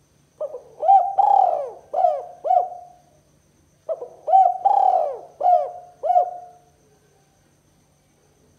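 Spotted dove cooing: two phrases of several short, arched coo notes, the second phrase following the first after a pause of about a second.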